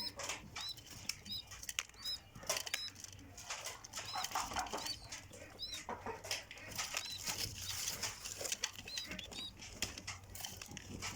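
Birds chirping with short, high arched peeps that repeat every half second to a second, over rustling and wing flaps.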